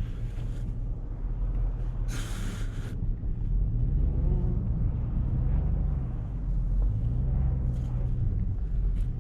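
Plow truck's engine running and working harder as it pushes snow, its low drone swelling a few seconds in and again later. A short hiss sounds about two seconds in.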